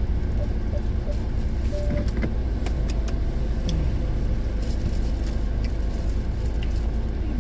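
Automatic car-wash air dryers blowing over the car: a steady rushing rumble heard from inside the car, with a few faint clicks.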